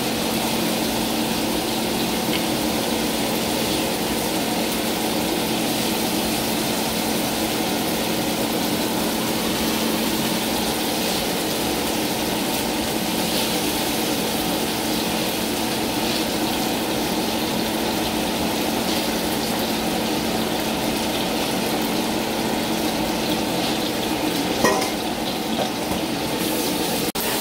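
Curry sauce sizzling steadily in a nonstick wok as pieces of fried tilapia are added and stirred in with a wooden spoon, over a steady low hum. There is a single short clack near the end.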